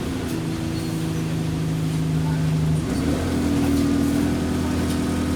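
Engine of an Alexander Dennis Enviro200 single-deck bus running as the bus drives, a steady engine hum whose tone shifts about three seconds in.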